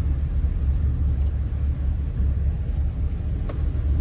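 Steady low rumble of a car's engine and tyres heard from inside the cabin while driving, with a couple of faint ticks late on.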